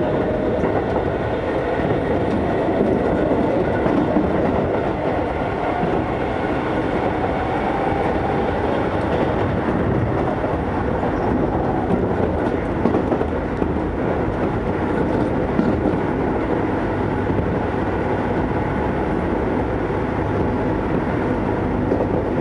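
Keisei 3400-series electric train running at speed, heard from inside a passenger car: a steady rumble of wheels on rails.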